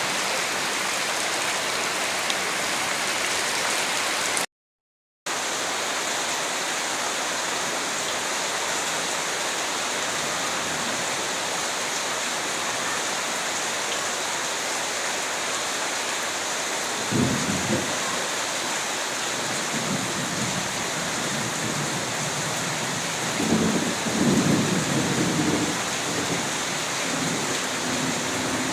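Steady, dense rainfall hissing evenly, with low rumbles of thunder twice in the second half. The audio drops out completely for under a second near the start.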